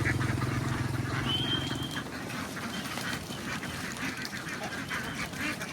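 A large flock of farmed ducks quacking, many calls overlapping in a continuous chorus. A low steady hum underneath dies away about two seconds in.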